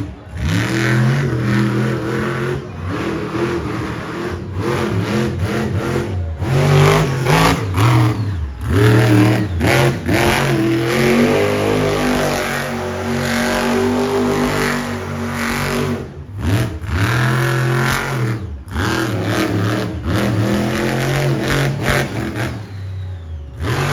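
Monster truck engine revving hard and repeatedly, its pitch climbing and falling as the throttle is worked, with several brief drops where the throttle is lifted.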